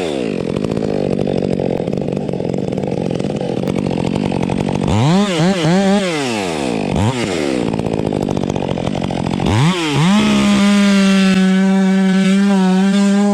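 Chainsaw engine running. It drops in pitch at the start and runs lower and rougher for a few seconds. It revs up and down several times around the middle, then holds a steady high pitch near the end.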